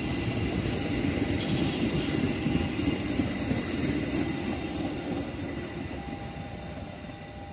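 The passenger train's coaches and a trailing cargo van roll past on the rails, the wheels clicking a few times over the rail joints. The rumble fades over the last couple of seconds as the tail of the train moves away.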